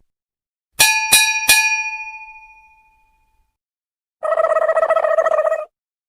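Sound effects: a bell-like chime struck three times in quick succession, ringing out and fading over about two seconds. A few seconds later comes a buzzy held tone, like a buzzer, lasting about a second and a half.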